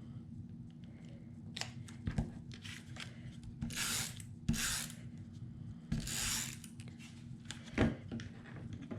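Paper crafting at a table: cardstock being handled and slid, with two longer rustling strokes of paper about four and six seconds in and a few light taps in between.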